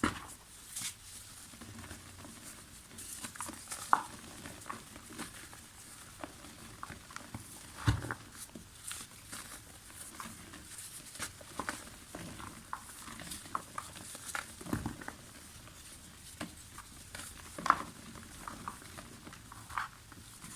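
Chunks of soft mud crumbling and crunching apart, an irregular run of small crackles and patters with a few louder sharp snaps as bigger pieces break.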